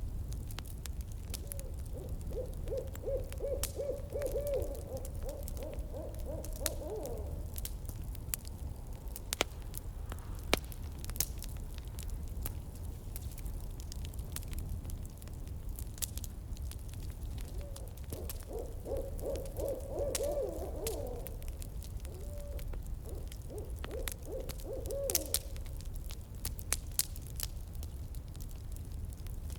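An owl calls twice, each call a long run of rapid, evenly spaced hoots, over a crackling campfire with scattered sharp pops and a low steady rumble.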